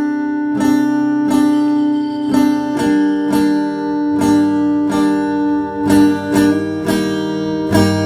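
Acoustic guitar strummed in a steady rhythm, about two strums a second, with ringing chords that change about three seconds in and again near the end: the instrumental intro of a song.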